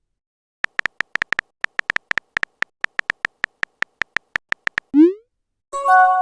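Electronic sound effects: a rapid, uneven run of short ticks, then a quick rising boing-like sweep about five seconds in, and a brief steady synth chord near the end.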